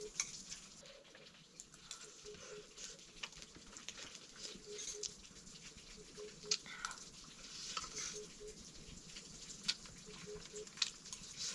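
Metal spoon scraping and clinking through fried rice, irregular light clicks and scrapes.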